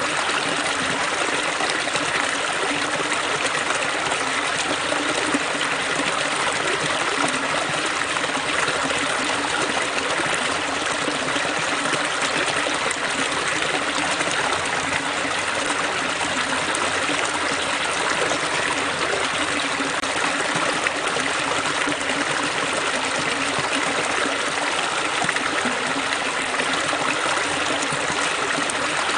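Water running and splashing over rocks, a steady, unbroken rush.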